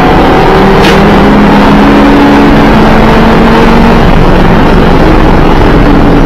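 2012 Audi TT RS's turbocharged inline five-cylinder engine running hard on track, loud and steady, its pitch shifting now and then. A short sharp crack comes about a second in.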